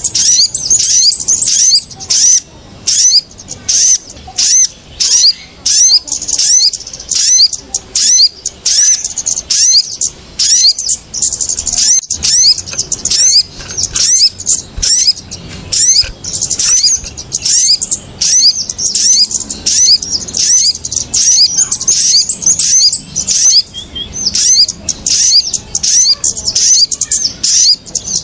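Bird-lure recording of small birds giving rowdy calls, billed as kemade and sogon: a dense, unbroken run of sharp, high chirps, several a second, with notes from different birds overlapping.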